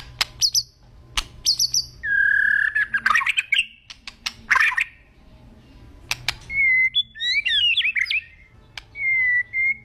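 White-rumped shama (murai batu) singing: sharp clicks, then long whistled notes and fluty phrases, with a burst of fast, varied warbling about seven seconds in.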